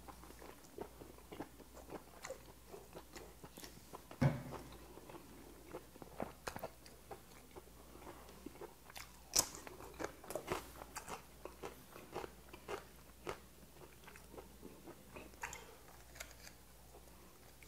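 Close-up chewing and crunching with wet mouth clicks as boiled white whelk meat and a raw green chili pepper are eaten. The loudest crunch comes about nine seconds in, as the chili is bitten.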